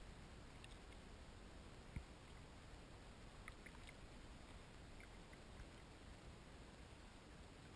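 Quiet kayak paddling: faint water drips and small clicks over a low hiss, with a single sharp knock about two seconds in.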